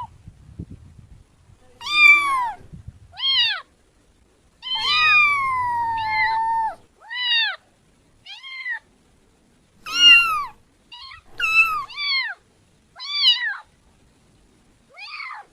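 Domestic cat meowing over and over: about ten short, arching meows, with one long drawn-out meow of about two seconds a few seconds in.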